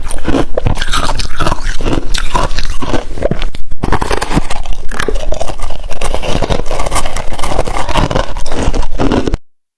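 Close-up crunching and chewing of freezer frost ice in the mouth, a dense run of crisp crunches with scraping. It cuts off suddenly near the end.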